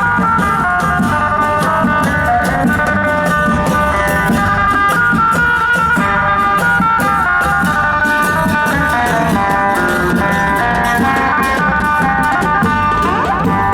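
Isan folk music for a serng bang fai dance: drums and small percussion keep a steady, fast beat under a held, reedy melodic line.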